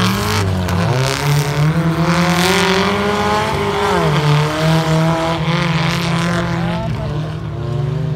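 Off-road 4x4 racing vehicle's engine revving hard under load. Its pitch falls and climbs again about a second in, falls again around four seconds in, then holds fairly steady.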